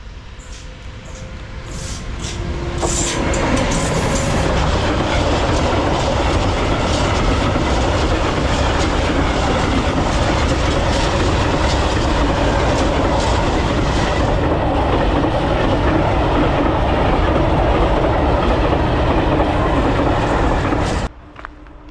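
Freight train rolling past close by: a steady loud rumble of wagons with wheels clicking over the rail joints. It builds over the first three seconds and cuts off abruptly near the end.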